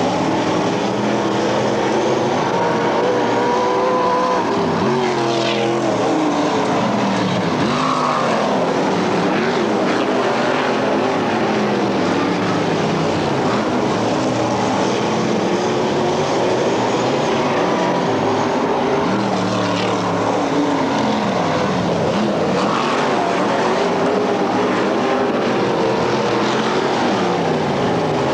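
Several dirt-track race car engines running hard together, their pitch sweeping up and down again and again as cars pass and accelerate, with no let-up in the noise.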